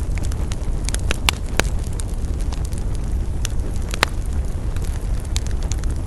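Wood fire burning with a steady low rumble and irregular sharp crackles and pops, a few louder snaps a little after one second and about four seconds in.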